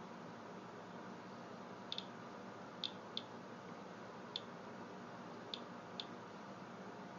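Rad Alert Inspector Geiger counter clicking at random, uneven intervals, about seven clicks in a few seconds, as it counts radiation from a rain-soaked paper towel held in front of it. A steady low hiss runs underneath.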